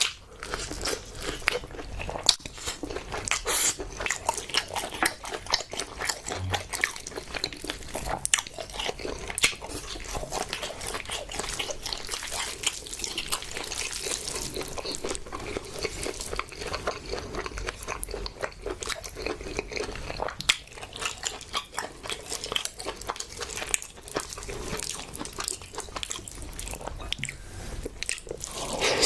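Close-miked eating: chewing and biting food, a steady run of many small wet clicks from the mouth.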